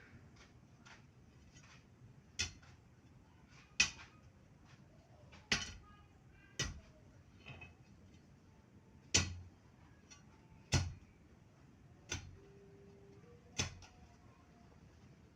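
Repeated sharp blows, about eight strong strikes spaced a second or two apart at an uneven pace, like a hand tool striking over and over.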